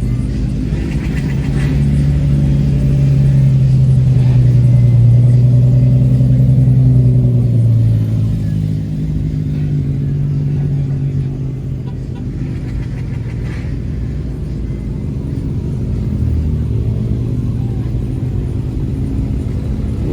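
Car engine and exhaust running with a low rumble at low revs. It swells over the first few seconds, is loudest for a few seconds, then eases off, with a slight drop in pitch near the end.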